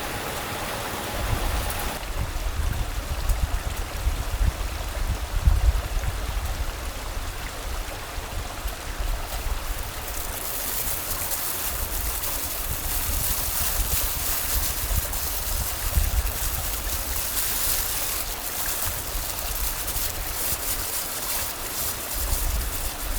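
Mountain stream water rushing and splashing steadily, with a low rumble underneath; the hiss of the water grows stronger about ten seconds in.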